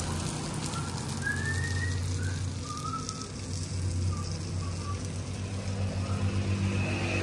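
Steady low background hum with faint bird chirps: one rising whistled chirp a little over a second in, then several short chirps scattered through the middle.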